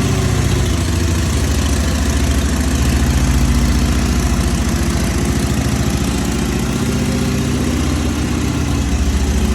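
Harley-Davidson V-twin idling on its stock exhaust pipes, a steady low, even burble.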